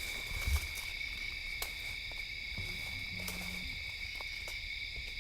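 Steady, high-pitched chorus of insects, such as crickets, with scattered small snaps and rustles of brush as people move through the thicket, and a low thump about half a second in.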